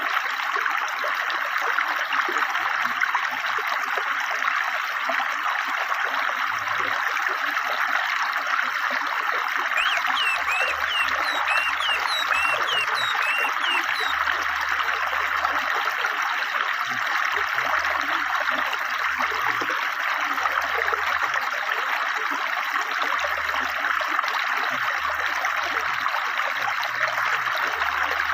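River water flowing steadily with a babbling rush. About ten seconds in, a forest bird gives a few seconds of quick, short chirps over it.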